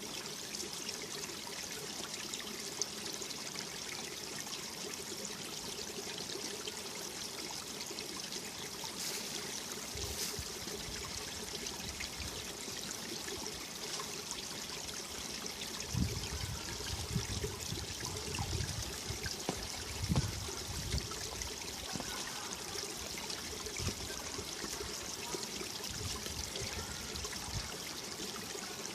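Mountain valley stream rushing and babbling steadily over rocks. Low rumbling gusts of wind on the microphone come in about halfway through and are loudest for a few seconds.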